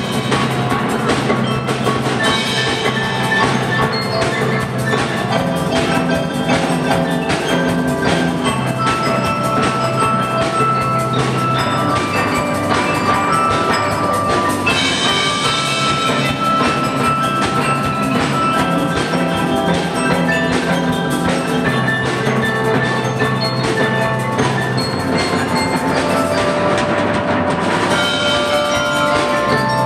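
Percussion ensemble playing a melodic arrangement, with ringing mallet instruments such as marimba and bells carrying the tune over drums.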